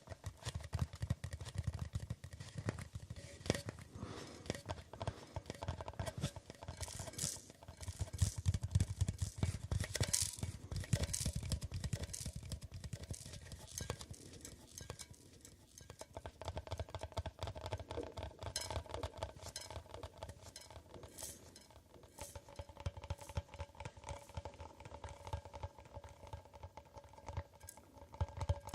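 Fingers tapping rapidly and continuously on hard objects, many light clinking taps a second. The tapping is busiest in the middle. A faint steady ringing tone sits under it in the second half.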